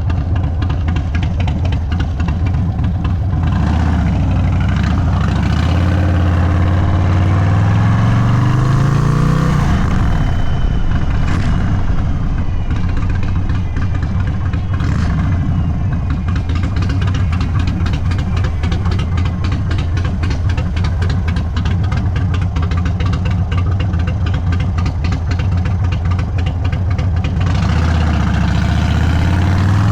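Indian Sport Chief's Thunderstroke 116 V-twin running through a Sawicki Speed exhaust on a stage 2 build. The engine climbs in pitch under acceleration from about four to nine seconds in, holds a steady cruising speed through the middle, and climbs again near the end.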